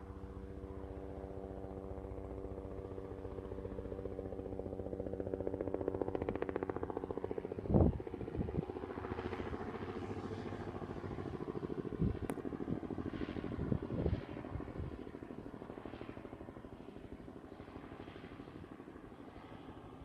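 Helicopter running with a steady hum and a fast, even rotor beat. A few loud knocks sound about 8, 12 and 14 seconds in.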